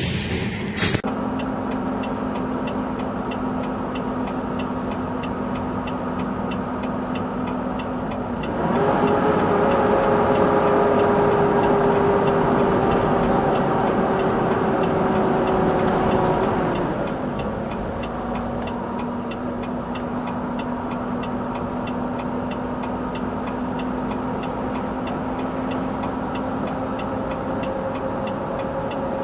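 A vehicle engine running at a steady low idle, heard from inside the cab, with a steady ticking. About eight seconds in the engine speeds up to a higher, louder, steady pitch for about eight seconds, then settles back to idle.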